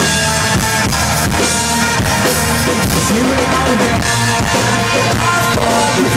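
Rock band playing live, loud and steady, with drums and guitars.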